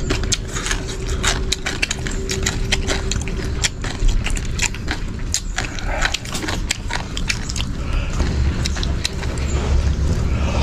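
Close-up chewing of crisp-skinned fried peanuts: many irregular crunches and crackles.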